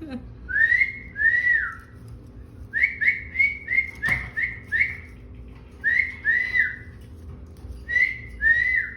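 Parrot whistling a series of short notes, each rising and then falling, mostly in pairs, with a quicker run of about six in the middle. A single sharp click about four seconds in.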